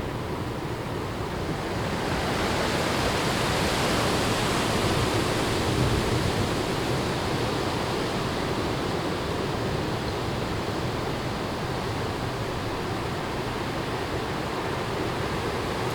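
Strong wind gusting through forest trees and leaves, a steady rushing that swells about two seconds in and eases off slightly after the peak.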